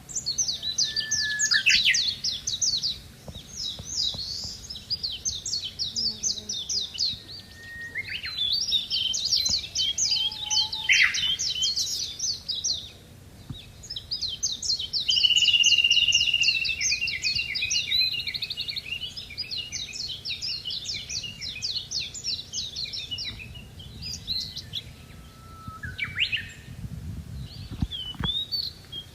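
A bird singing long, fast phrases of rapidly repeated high chirping notes, broken by short pauses, with a held whistle partway through and a few sliding notes.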